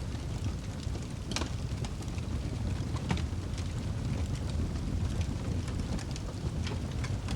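Wood fire in a fireplace burning with a steady low rumble and crackling, with scattered sharp pops, the loudest about a second and a half in.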